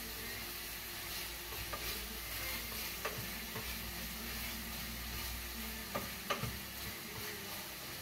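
Chicken, onion and garlic sautéing in oil in a frying pan: a steady sizzle, with a wooden spoon stirring through it and a few light clicks of the spoon against the pan.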